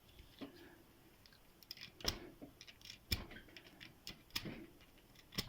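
Faint, irregular metal clicks of a lock pick and tension wrench working small padlocks as they are zipped open, about half a dozen sharp ticks spread unevenly.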